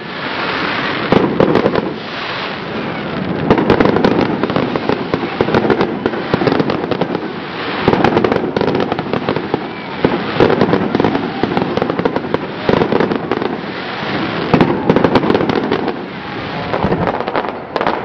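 Fireworks display: dense crackling and rapid bangs, with louder salvos every couple of seconds.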